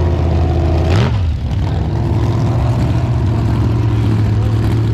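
Big mega truck racing engine running steadily, with a brief rev about a second in before settling back to a steady low running note.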